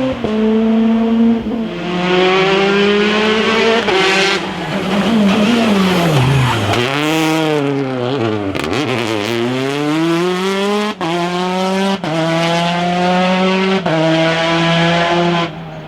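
Rally car engine at high revs, its pitch dropping steeply twice as it brakes and downshifts for a corner, then climbing again as it accelerates away. Sharp cracks come at the gear changes a few seconds later.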